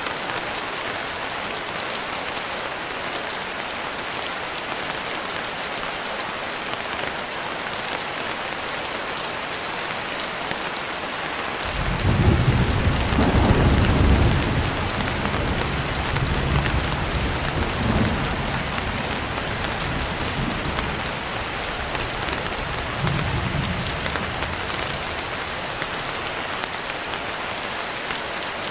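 Steady rain falling, with a roll of thunder rumbling in about twelve seconds in, loudest for a few seconds, then rolling on in smaller swells and fading.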